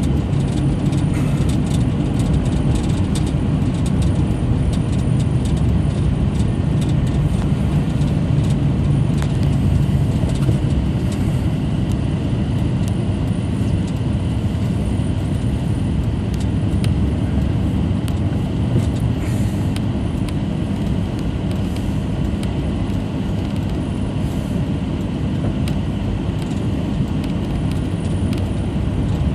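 Steady engine and road noise of a vehicle being driven, heard from inside the cab.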